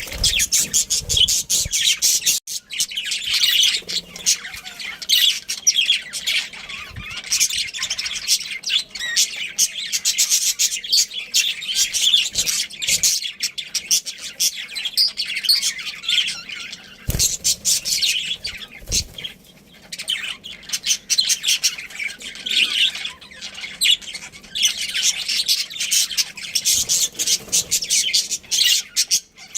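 Budgerigars chattering continuously with rapid high chirps and squawks. Two brief low knocks come about two-thirds of the way through.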